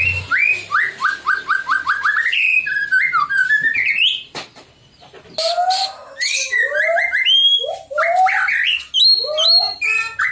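White-rumped shama (murai batu) singing a varied song: a quick run of repeated rising notes, then sliding whistles, a pause of about a second midway, and loud phrases of low and high whistled notes.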